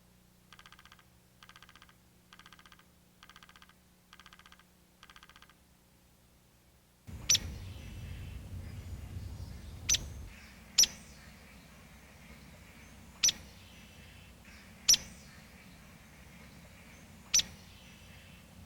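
Backyard birds calling: a bird gives a series of short nasal notes, roughly one a second, then, after a sudden change in the background, another gives six sharp, high single chips at uneven intervals over a soft hiss.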